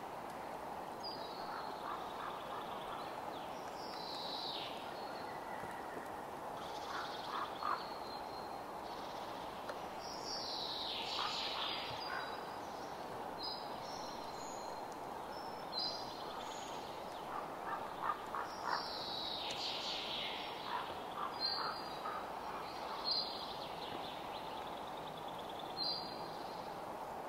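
Birds calling over a steady background hiss: repeated short falling calls and quick chirps, coming and going through the whole stretch.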